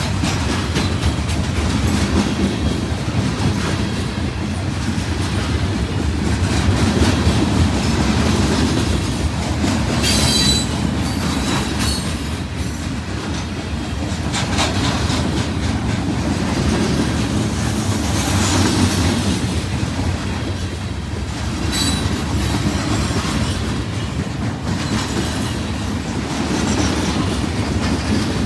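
A train rolling past, its railcars rumbling steadily over the rails with wheel clatter, and a few brief high-pitched wheel squeals about ten, twelve and twenty-two seconds in.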